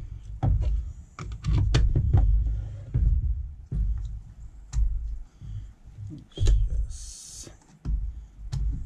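Irregular clicks, knocks and low thumps of hand tools and the planer's plastic parts being handled during reassembly, with a short hiss about seven seconds in.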